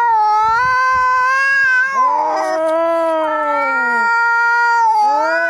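Angry domestic cats caterwauling: long, drawn-out yowls whose pitch swells and sags, following one another with barely a break, a new one starting about two seconds in and another near the end.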